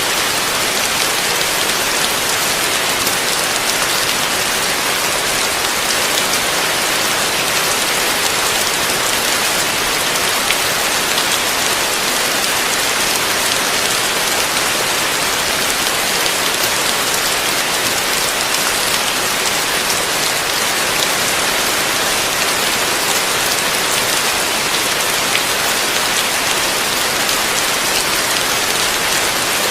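Heavy rain falling steadily in a dense, even hiss, with fine patter of individual drops and no letting up.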